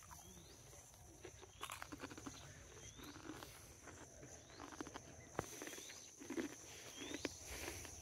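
Quiet field ambience: a bird repeating short rising chirps about once a second over a faint steady high tone, with scattered soft clicks and rustles.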